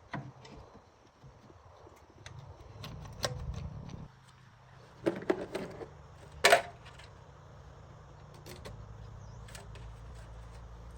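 Scattered clicks and knocks of handling, the loudest a quick cluster about five seconds in and a single sharp knock a second later, over a low hum that turns steady near the end.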